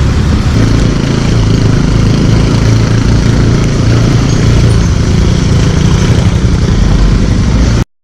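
Motorcycle engine running under a loud, steady rush of wind noise on the microphone, which cuts off abruptly near the end.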